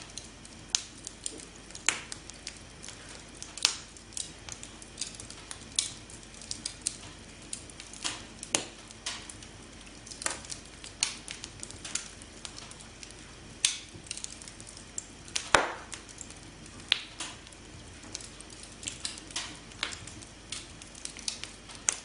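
Wood campfire crackling: irregular sharp pops and snaps, some close together, over a soft steady hiss of burning, with one louder pop about two-thirds of the way through.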